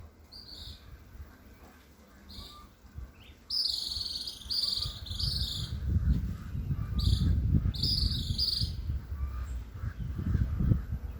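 A bird calling repeatedly: short, high calls, some single and some in quick runs of two or three. A low rumble runs under the calls through the second half.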